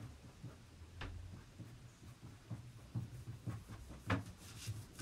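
Faint scratching and tapping of a coloured pencil on thin card as short dashed strokes are drawn, with stronger strokes about a second in and about four seconds in.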